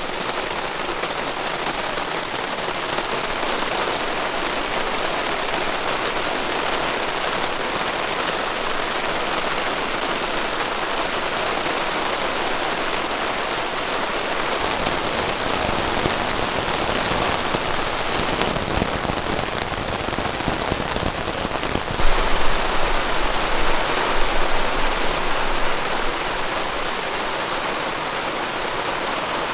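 Heavy rain falling steadily in a dense hiss, with a louder, rougher stretch carrying some low rumble about three quarters of the way through.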